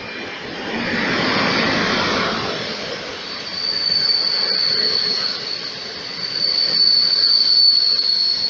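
Locomotive-hauled passenger train passing close by. A rushing rumble peaks as the electric locomotive goes past about a second in. From about three seconds in, a high steady wheel squeal rises over the rolling coaches and carries on.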